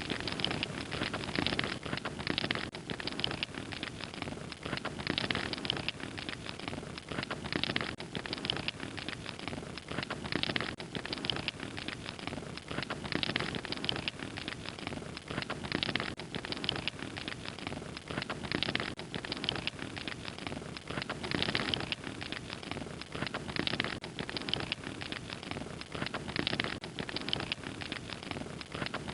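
Fire crackling steadily: a dense run of small pops and snaps over a soft hiss.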